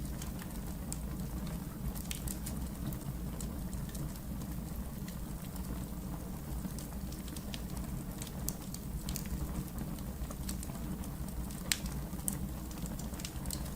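Wood fire in a fireplace crackling: a steady low rumble with scattered sharp pops and snaps, two louder pops near the end.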